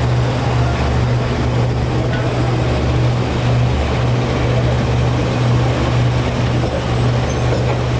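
Passenger train running steadily, heard from on board: a constant low drone with an even rushing noise over it.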